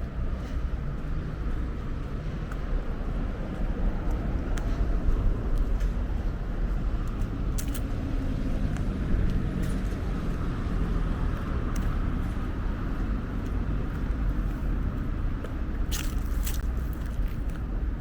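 Steady low rumble of road traffic around a station, with a few sharp clicks, most clearly about two-thirds of the way through and near the end.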